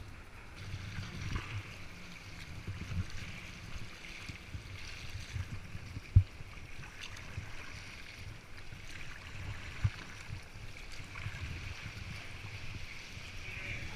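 Kayak paddle dipping and splashing in river water, with wind rumbling on the microphone. Two sharp knocks stand out, the louder about six seconds in.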